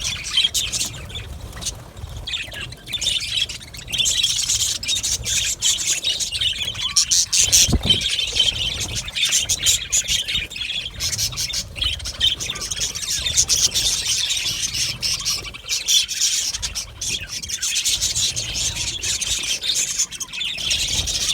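A flock of budgerigars chattering: many birds calling at once in a continuous stream of short, high-pitched chirps and warbles, with a brief lull about two seconds in.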